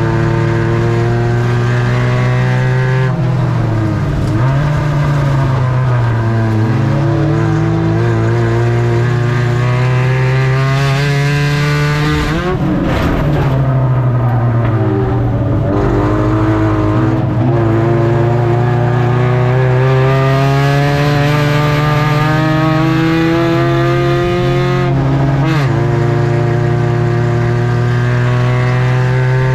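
Spec Ford Ranger race truck's engine running hard at racing speed, its pitch climbing in long pulls and dropping sharply a few times (about 3, 12 and 25 seconds in) before climbing again.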